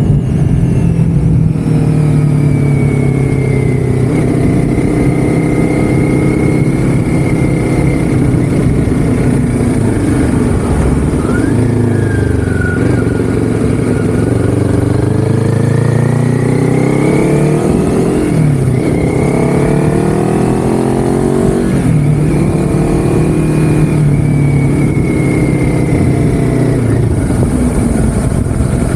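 A vehicle engine running under way, its pitch rising and falling several times as the speed changes.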